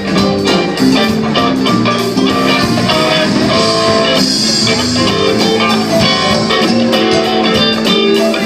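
Rock band playing live: guitar chords and notes over drums keeping a steady beat.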